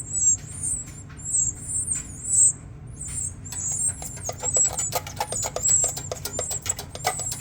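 A nest of five partly feathered nestlings cheeping. Their short, high-pitched calls come quickly one after another and overlap all through.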